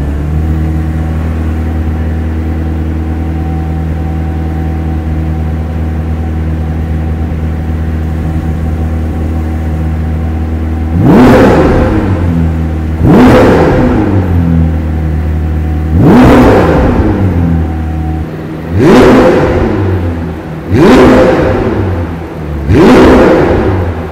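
McLaren 765LT's twin-turbo 4.0-litre V8 idling steadily, then revved in six quick blips from about halfway through, each one rising sharply in pitch and dropping back to idle.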